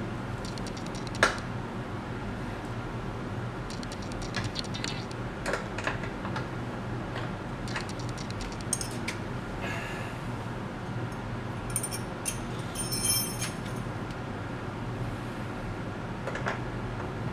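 Hand tools and metal parts clicking, clinking and rattling as a component is worked loose in an engine bay, with one sharp knock about a second in and a brief metallic jingle around two-thirds of the way through, over a steady low hum.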